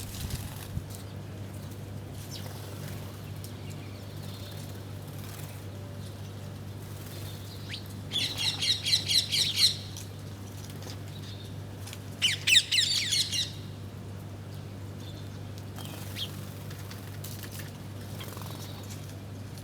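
Small birds giving two bursts of rapid, harsh, repeated chirps, each lasting a second or so, about eight and twelve seconds in, with a few faint single chirps between them. A steady low hum runs underneath.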